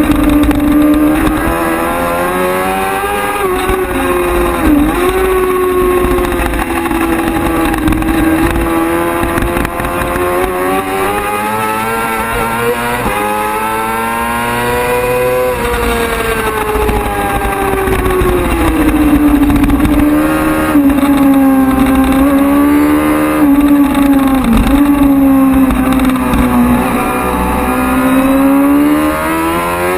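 Superbike racing motorcycle engine under hard riding, its note climbing and falling as the throttle opens and closes, with brief dips at gear changes. A long climb in pitch peaks about halfway through before the revs drop away.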